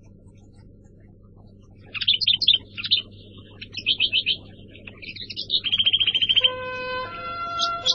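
Birds chirping, starting about two seconds in, with quick high calls and a fast even trill, joined near the end by a held synthesizer-like note of background music.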